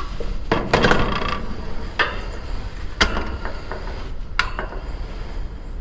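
Hand tools and hardware being handled during heat pump repair work: a cluster of clatters about a second in, then single sharp knocks at intervals of about a second, over a steady low hum.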